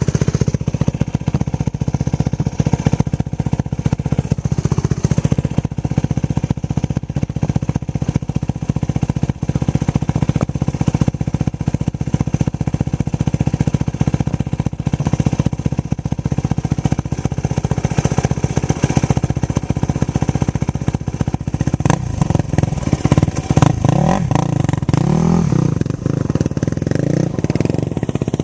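Yamaha YFZ450 quad's single-cylinder four-stroke engine, fitted with a Lexx MX aftermarket exhaust, running hard under riding, with the pitch rising and falling as it is revved, most clearly a few seconds before the end.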